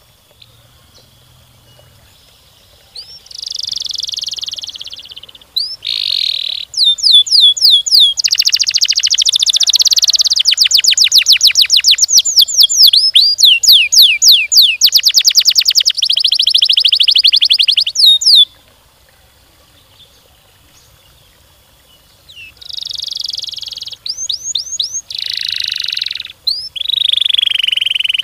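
Domestic canary singing long rolled trills: runs of fast, closely spaced sweeping notes, led in by a buzzy note. It starts a few seconds in, sings for about fifteen seconds, pauses briefly, then starts again near the end.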